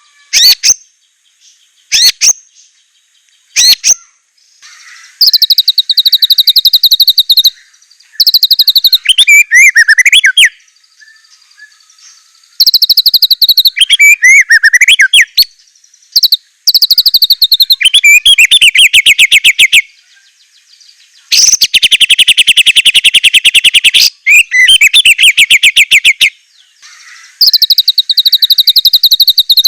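White-rumped shama (murai batu) singing loudly: a few short sharp call notes at first, then a series of loud, very fast trilled phrases about two seconds each, with brief pauses between them.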